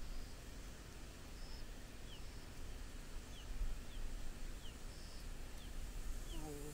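Faint, thin, high bird chirps, each a short downward flick, coming irregularly about once a second over a low outdoor rumble, with a short lower falling call near the end.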